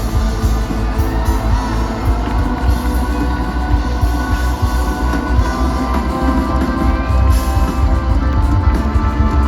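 Live band playing loud amplified music with a heavy bass line.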